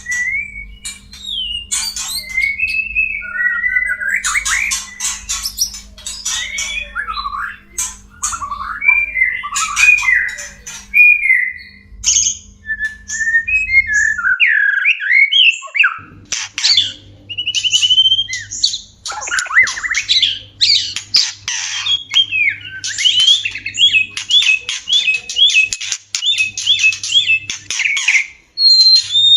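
White-rumped shamas calling in courtship: a dense, varied mix of gliding whistles, harsh squawks and clicking notes, with a quick run of evenly repeated notes near the end. A low hum under the first half cuts off about halfway through.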